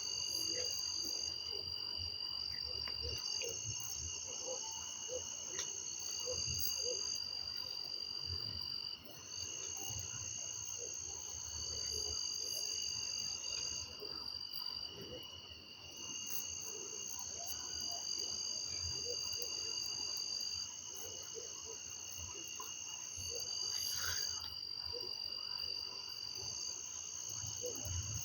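Chorus of insects: several steady, high-pitched trills overlapping, some stopping and starting every few seconds. Frogs call underneath in short, low croaks throughout.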